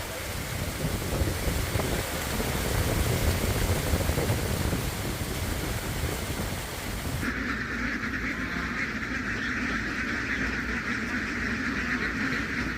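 A large flock of domestic ducks quacking all together in a dense, continuous din. For the first seven seconds or so a loud, even rushing noise covers it, then cuts off suddenly.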